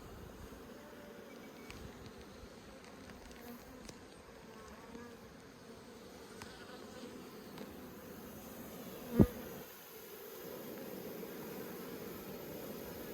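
Honeybees buzzing steadily around the hive entrances, a dense hum of many wings, a little louder near the end. A brief, sudden loud hit about nine seconds in.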